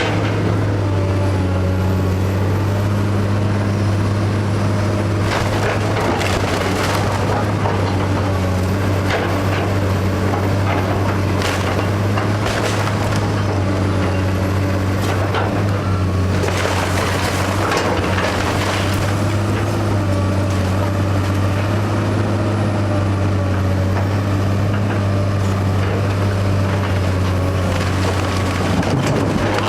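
Heavy demolition machine's engine running steadily while a wood-frame house is torn down, with crunching and splintering of timber in several bouts, about five, eleven, seventeen seconds in and near the end.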